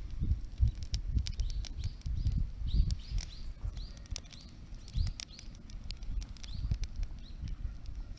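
Wood fire crackling and popping in sharp irregular snaps over an uneven low rumble. From a few seconds in there is also a run of short high chirps, about two a second.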